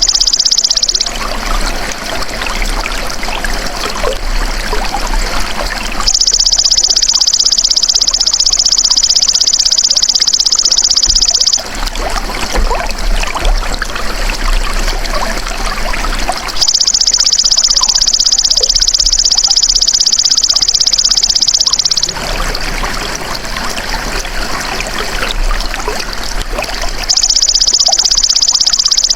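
Shrill, steady buzzing of a belalang emas insect in stretches of about five seconds, switching back and forth with stretches of trickling, splashing water.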